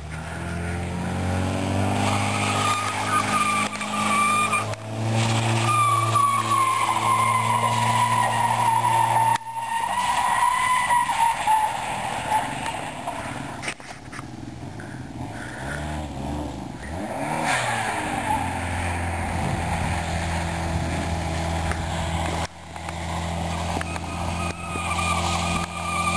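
Chevrolet Cavalier's 2.2-litre OHV four-cylinder engine revving hard as the car slides around on gravel, the revs rising and falling and cutting off sharply twice as the throttle is lifted. A high whine slides up and down in pitch above the engine.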